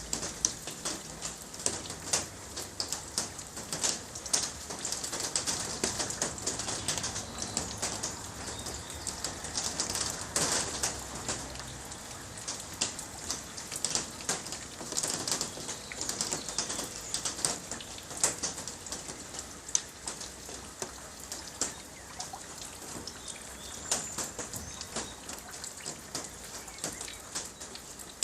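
Rain falling steadily, a dense patter of individual drops.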